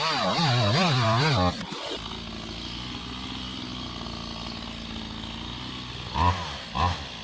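Two-stroke chainsaw at high revs, its pitch wavering up and down for about a second and a half, then dropping to a steady idle. Near the end it is revved in several short quick blips.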